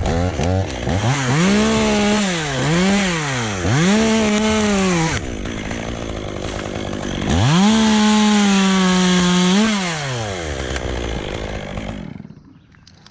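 Two-stroke chainsaw revved in three quick bursts, dropping to idle, then held at full throttle for about two and a half seconds, which fits cutting a limb free to fall. It settles back to idle and stops about a second before the end.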